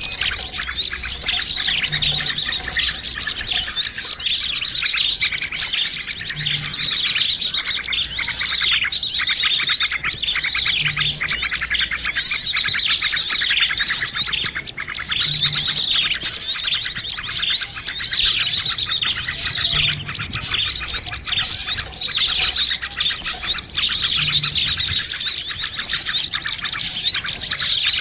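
Many small birds chirping and twittering at once in a dense, unbroken chorus of quick high chirps: a mixed small-bird lure recording meant to draw in other small birds.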